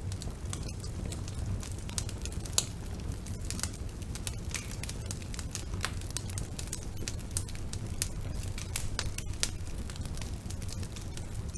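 Wood fire burning in a fireplace, crackling with many irregular small pops over a low steady rumble of the flames. One sharper, louder pop comes about two and a half seconds in.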